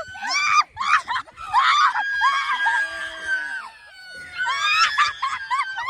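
People screaming in fright: repeated shrill, high-pitched screams and cries, several held long, easing off briefly about four seconds in before rising again.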